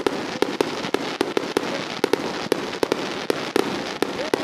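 Fireworks going off: a rapid, irregular string of sharp bangs, several a second, over a steady crackling hiss.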